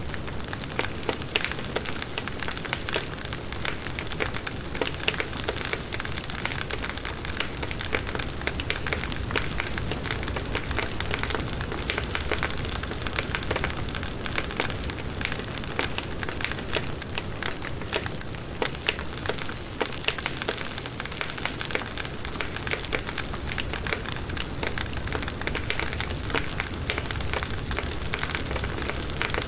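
Firewood burning in a campfire, crackling and popping steadily with many small snaps over a low hiss of flame.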